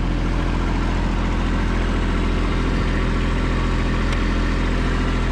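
Kubota B2601 compact tractor's three-cylinder diesel engine running at a steady idle, with no change in speed.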